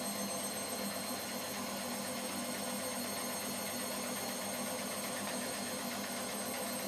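Washing machine running with a steady mechanical hum and whine.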